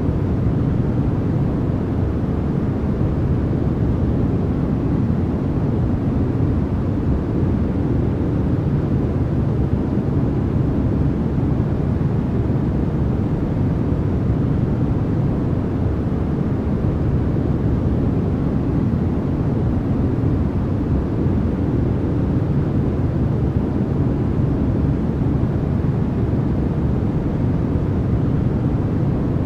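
Steady, unchanging generated noise of a sleep track, with its weight in the low end: a deep, even rush with little high hiss.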